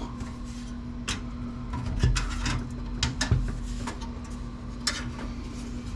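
Clicks, knocks and rubbing from handling a desktop computer case while taking it apart, over a steady low hum.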